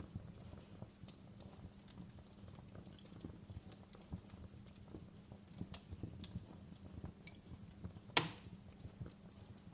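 Fire crackling: irregular small pops and snaps, with one louder sharp pop about eight seconds in.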